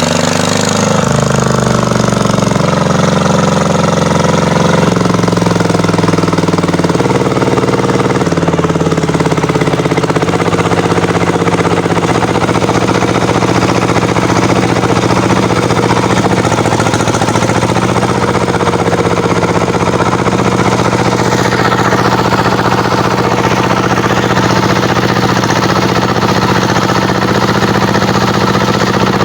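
Kubota tractor's diesel engine running with a heavy clatter, its speed stepping up and down several times in the first dozen seconds, then holding steady.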